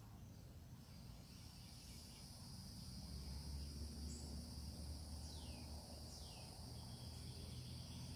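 Faint outdoor ambience of insects trilling steadily at a high pitch. Two descending bird whistles come about five and six seconds in, over a low rumble.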